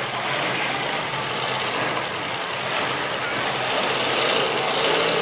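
Demolition derby car engines running, a steady noisy din without clear crashes.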